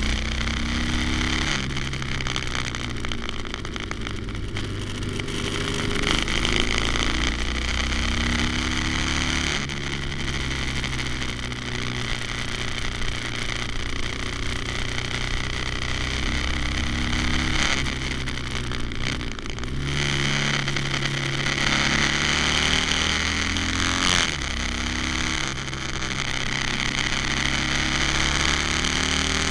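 Harley-Davidson Sportster's V-twin engine pulling on a motorcycle under way, its pitch rising under acceleration and dropping back several times. Wind rushes over the fork-mounted microphone throughout.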